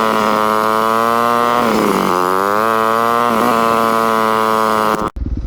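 2017 Yamaha YZ250F's four-stroke single-cylinder engine running at steady high revs under way. Its pitch drops and picks back up about two seconds in. Near the end it cuts off abruptly into a lower, pulsing engine sound.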